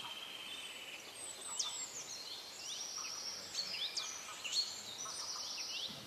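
Birds chirping: repeated short high calls that sweep downward, mixed with buzzy trilled notes held for a second or so.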